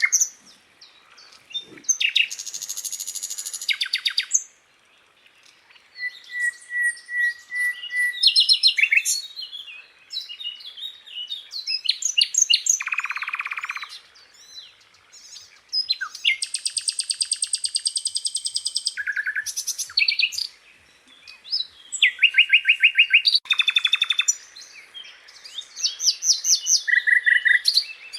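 Sikatan londo, a flycatcher, singing a varied song of fast high trills and rattling phrases at changing pitches, with a steady whistled note and a lower buzzy trill among them, separated by short pauses.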